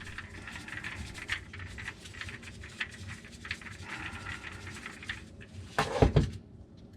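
Light, irregular clicking and rattling of tools and parts being handled in a sink cabinet, with one louder clunk about six seconds in.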